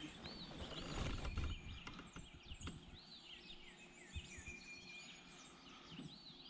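Wild birds chirping and singing: many short, repeated arching notes throughout. A brief low rumble of handling or wind noise comes about a second in.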